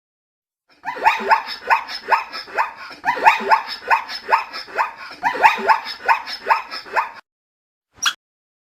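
An animal calling in a rapid series of short yelping cries, each rising in pitch, about three a second for some six seconds, with one brief call near the end.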